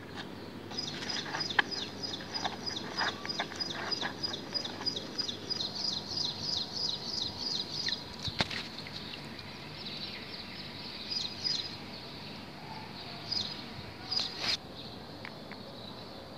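A bird giving a fast run of short high chirps, about five a second, for the first several seconds, then only occasional chirps, over a low outdoor background; a sharp click a little past the middle.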